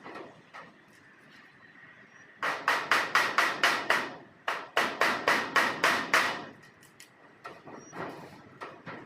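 Two runs of fast, even strokes, about six a second, each nearly two seconds long, with a short pause between them.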